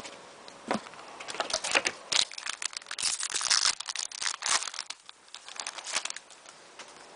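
Foil trading-card pack wrapper crinkling and tearing as a pack of hockey cards is opened and the cards handled: a run of irregular rustles and crackles, densest about three to four and a half seconds in.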